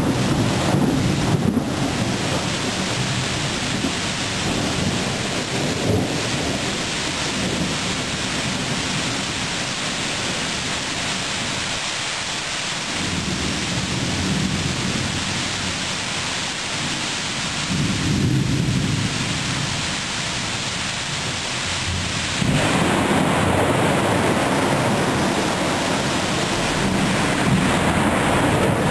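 Thunderstorm: steady rain hiss with several low rolls of thunder rumbling in and out. About 22 seconds in, the hiss abruptly becomes louder and fuller.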